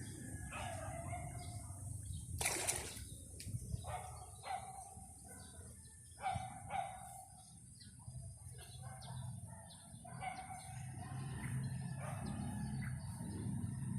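A bird giving short chirping calls, one every second or two, with a brief loud rushing noise about two and a half seconds in.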